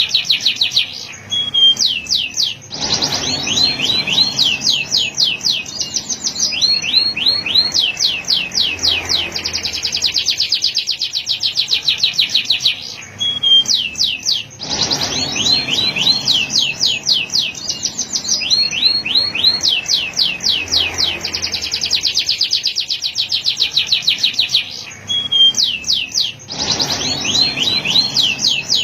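Male canary singing a continuous song of fast trills and rolls of rapidly repeated high notes, broken by brief dips. The same sequence of phrases comes round again about every twelve seconds.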